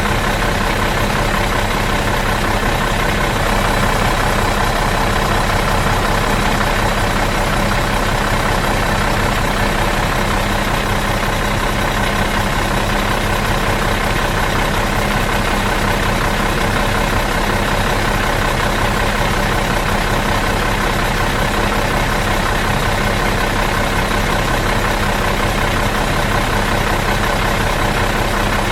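Bus engine idling out of gear, a steady, even drone with a constant hum that does not change.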